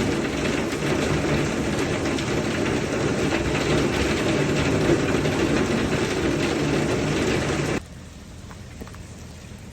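Heavy rain drumming on an umbrella held overhead, a dense steady patter of drops. About eight seconds in it drops suddenly to a much softer rain patter.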